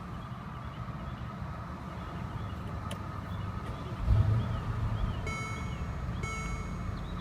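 Mercedes-AMG ML63's 5.5-litre bi-turbo V8 idling just after push-button start-up, a steady low rumble that swells briefly about four seconds in. From about five seconds an electronic warning chime sounds about once a second over the idle.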